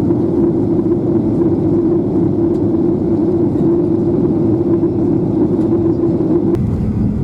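Boeing 737-800 cabin noise on descent: the steady rush of engines and airflow, with a humming tone in it that cuts off about six and a half seconds in.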